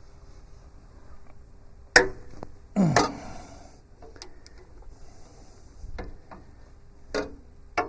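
Hand wrenches clinking and knocking on the steel bolts and sub-frame of a Kubota B7100 tractor while the sub-frame bolts are loosened: a handful of separate sharp metallic clicks, the loudest about two and three seconds in.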